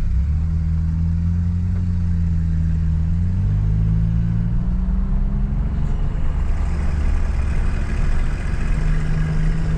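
A vehicle engine running at low speed. Its pitch rises a little about three seconds in, then holds steady.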